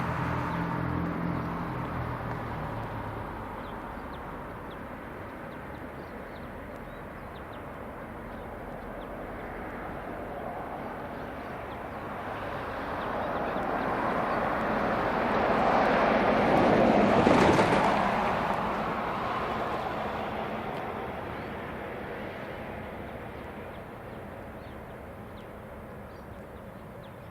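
Diesel engines of the rail grinder fading as it moves away, then a vehicle passing by, its noise swelling to a peak a little past the middle and dying away.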